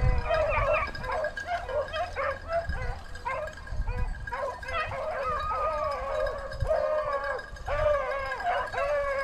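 A pack of rabbit-hunting hounds baying in chorus, many voices overlapping continuously as they run a rabbit on its scent trail.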